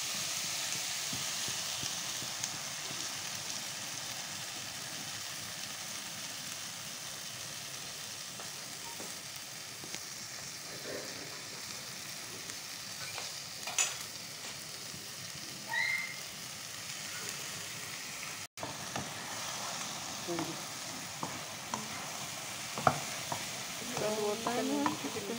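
Diced vegetables and beaten egg sizzling in a frying pan, a steady hiss. A wooden spatula scrapes and taps the pan a few times, more often near the end as the egg is stirred.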